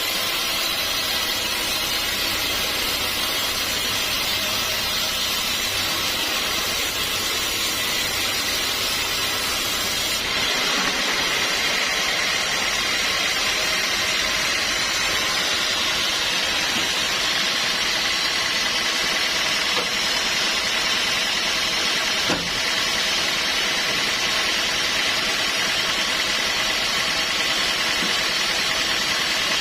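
Sawmill machinery running steadily, with an engine-like drone and hiss. The sound changes abruptly about a third of the way in, and there is a single brief knock later on.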